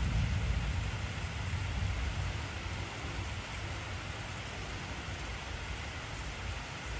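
Steady heavy rain hiss, with a low rumble of thunder fading away over the first two or three seconds.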